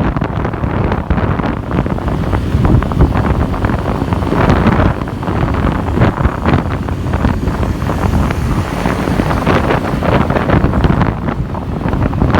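Wind buffeting the microphone of a rider on a moving motorbike taxi, a loud, continuous rumble with the motorbike and traffic under it.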